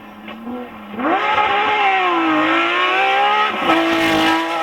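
Porsche 911 GT3 RS rally car's flat-six engine pulling hard. About a second in, its note jumps from a low, quiet drone to a loud, climbing wail. The revs dip and climb again, then drop near the end and hold steady.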